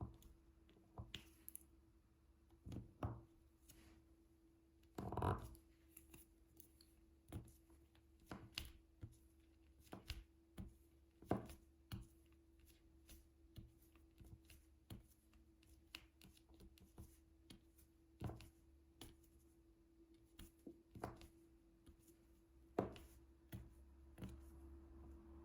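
Soft, irregular clicks and taps of a diamond painting drill pen picking up resin drills and pressing them onto the canvas, a few a second, with a louder rustle about five seconds in. A faint steady hum runs underneath.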